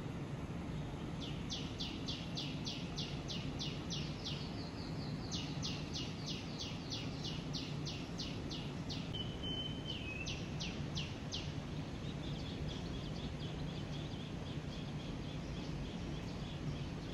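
A bird calling in long runs of sharp, falling chirps, about three a second, with a short break between runs and fainter chirps near the end, over a steady low outdoor hum.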